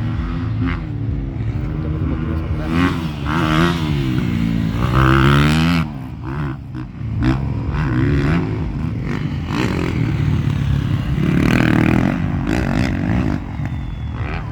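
Motocross bikes' engines revving hard, the pitch climbing and dropping again and again through the gears, loudest about four to six seconds in.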